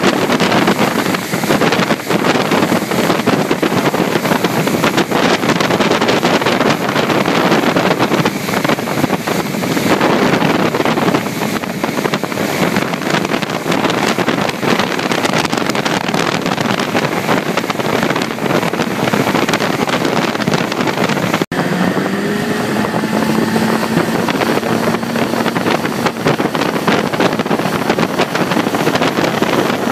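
Tow boat's motor running at speed, with wind buffeting the microphone and water rushing past. The sound drops out for an instant about two-thirds of the way through.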